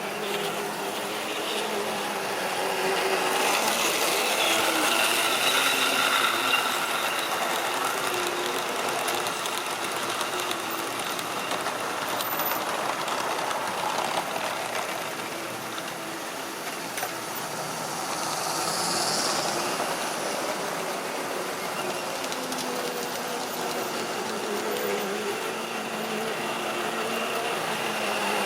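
Model railway train running round the track: the small electric motor whirring and the wheels rattling over the rails, swelling and fading slowly as it passes.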